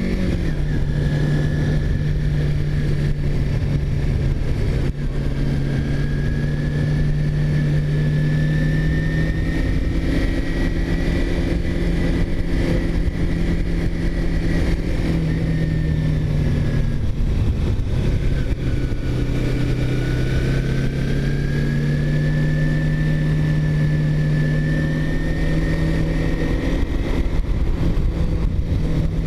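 Vehicle engine running at a steady cruise, its pitch rising and falling slowly and dipping briefly a little past the middle, under constant wind rush.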